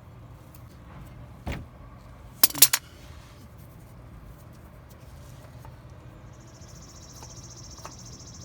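Channel-lock pliers working on a car's oil filter: a single knock about a second and a half in, then three quick sharp metal clicks, over a low steady hum, with a steady high hiss coming in near the end.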